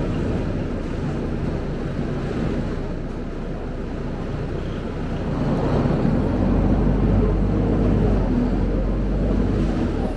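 Bus running, a steady low rumble of engine and road noise that gets louder about six seconds in.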